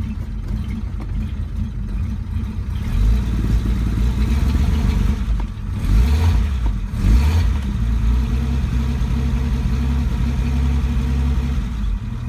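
1948 Frazer's Kaiser Supersonic 226 flathead six running shortly after a cold start: idling, then held at a faster speed from about three seconds in, with two quick blips of the throttle around the middle, and dropping back to idle near the end.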